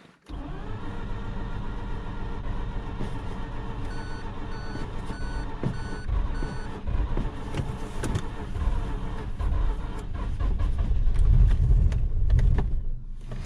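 2004 Mazda RX-8's 13B rotary engine cranking on its starter, with a row of short electronic beeps a few seconds in. Near the end it catches weakly for a couple of rough revs, then stops suddenly. This is a hard start that the owner puts down to flooding and a weak stock starter.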